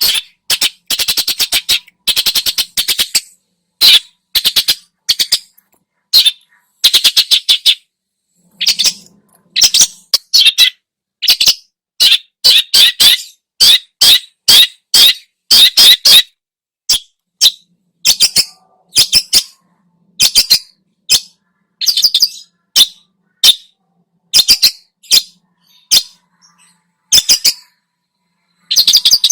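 Long-tailed shrike (cendet) singing in loud, rapid runs of short high notes, with brief pauses between the runs, its song full of mimicked phrases.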